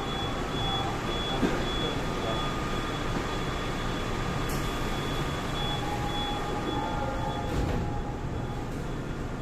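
Seoul Line 4 Daewoo–Alstom GTO VVVF 4000-series subway train running between stations, heard inside the car: a steady rumble and rush of noise with a faint high tone that comes and goes. A few sharp clicks sound about a second and a half, four and a half and seven and a half seconds in.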